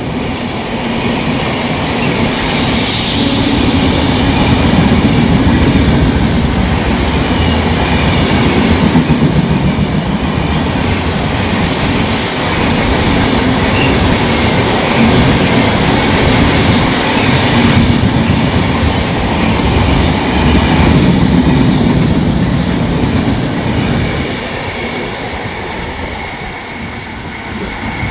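Long-distance express passenger train passing close by at speed, its coaches and wheels running loudly over the track. The rumble eases off a few seconds before the end as the train goes by.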